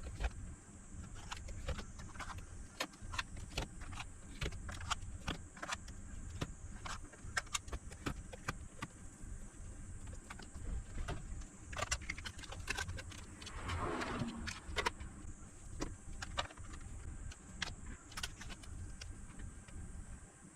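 Irregular light clicks and taps of small hard objects being handled, with a short scraping sound about two-thirds of the way through.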